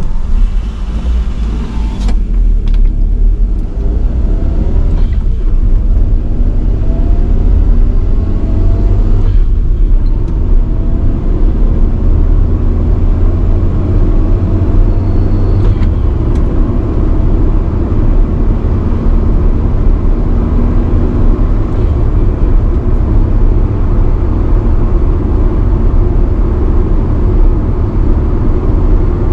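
1985 Nissan Sunny B12 accelerating away through the gears. The engine note rises in steps, with brief breaks for gear changes about 2, 5 and 9 seconds in, then settles into a steady drone with road noise at cruising speed.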